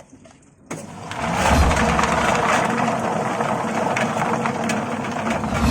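Melinjo skin-peeling machine starting up about a second in, then running steadily with a dense clatter of many small clicks over a low hum.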